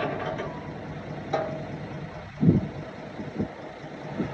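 Heavy diesel earthmoving machinery running steadily, with a few short knocks, the loudest about two and a half seconds in.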